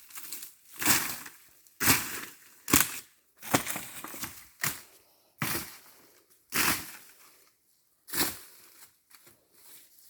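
Repeated crunching of dry leaves and brush: about eight sharp crunches, roughly a second apart, each dying away quickly.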